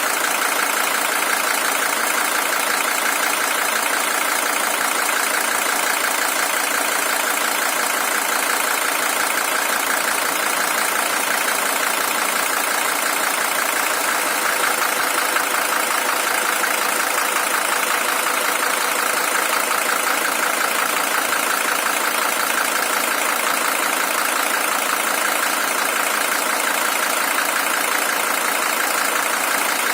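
Mercedes-Benz W123 300TD's OM617 five-cylinder diesel engine idling steadily. It is the original engine, with 620,000 km on it.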